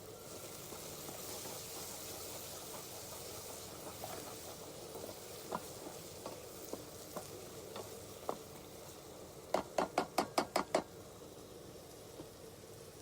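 Onions and chillies frying with turmeric in a pan, a steady sizzle, with a spoon stirring and clicking against the pan now and then. About ten seconds in comes a quick run of about eight sharp taps.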